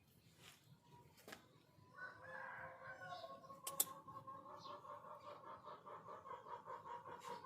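An aseel rooster crowing: one long, drawn-out, faint crow that begins about two seconds in, with a sharp click shortly after it starts.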